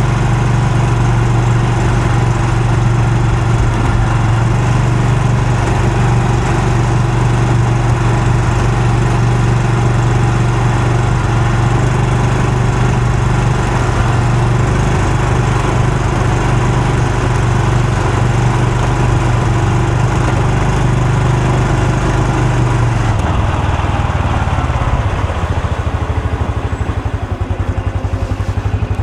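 Honda Super Cub C125's single-cylinder four-stroke engine and exhaust running at a steady speed while riding, then the revs drop about 23 seconds in as it slows, settling to a slower beat of separate exhaust pulses near the end, close to idle.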